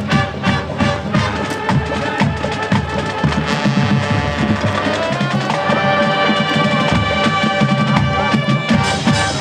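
High school marching band playing: a drumline keeps up a driving beat of snare and bass drum hits under sustained brass chords.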